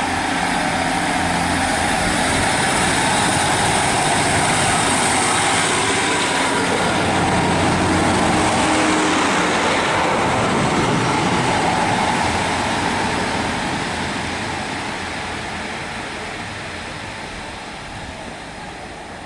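A train passing through the station, loud and steady at first, then fading away from about two-thirds of the way in as it recedes.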